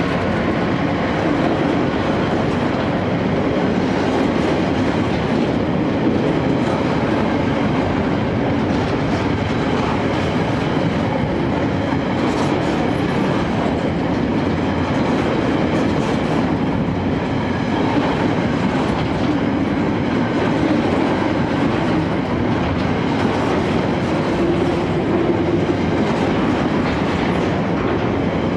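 Freight train hauled by a Class 66 diesel locomotive rolling past at close range, its wagon wheels clattering steadily over the rails.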